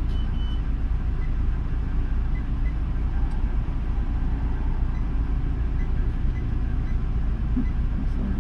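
Car engine idling: a steady low rumble. A short high beep sounds right at the start.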